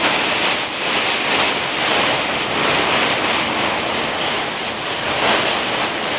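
Thunderstorm rain and wind make a loud, steady rushing hiss that swells and eases slightly.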